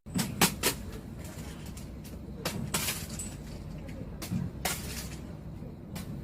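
Low background noise broken by a handful of short, soft knocks and clicks, a couple near the start and a few more spread through the rest.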